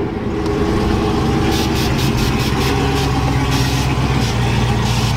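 Vehicle engine idling steadily with a low, even hum, and a quick series of short hissing bursts over it about one and a half to four seconds in.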